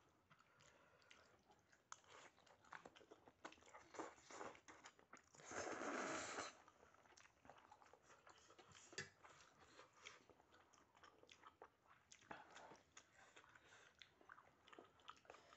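Close-up chewing and mouth sounds of a person eating spicy instant noodles: many small wet clicks and smacks. About five and a half seconds in comes a louder rush of noise lasting about a second.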